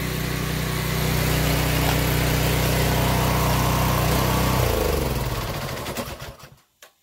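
Pressure washer engine running steadily, then shut off: its note drops in pitch and it winds down to a stop about six and a half seconds in.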